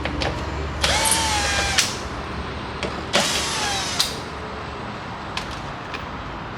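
A 2018 Ford F-350's driver's door power window motor running its cable-driven regulator to lower the glass, in two short runs with a whine, the second stopping about four seconds in.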